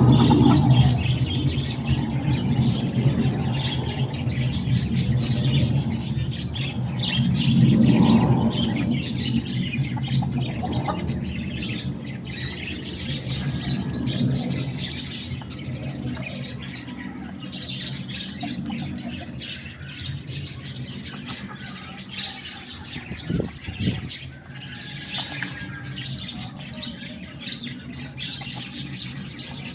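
Chickens squawking and calling in short bursts, over a low rumble that swells at the start and again about eight seconds in, with a single knock about two-thirds of the way through.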